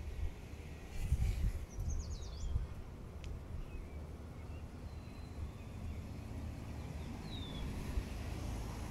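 Small birds chirping outdoors: a quick run of high falling chirps about two seconds in, a short note mid-way and another falling chirp near the end, over a fluctuating low rumble on the microphone.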